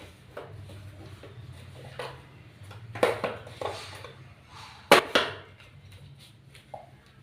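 Scattered knocks and clatters of small hard objects being handled, the loudest around three seconds in and again around five seconds in, over a faint low hum.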